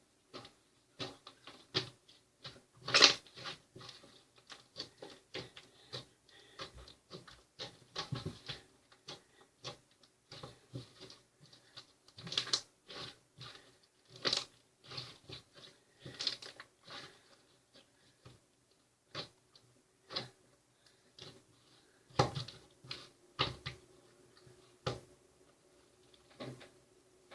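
Irregular clicks and taps at an uneven pace, the loudest about three seconds in, over a faint steady hum.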